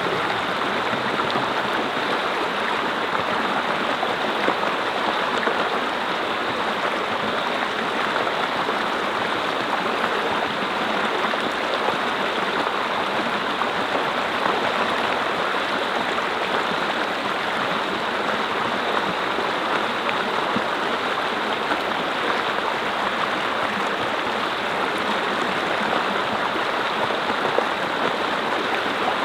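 Mountain stream flowing over rocks: a steady, even rush of water that does not change.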